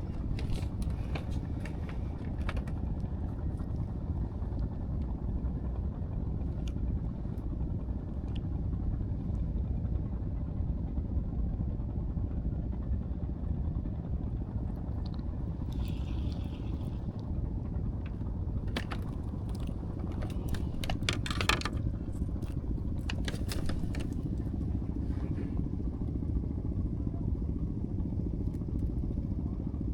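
Engine of a fishing boat running steadily as a low, even rumble, with scattered light clicks and clatter, most of them a little past the middle.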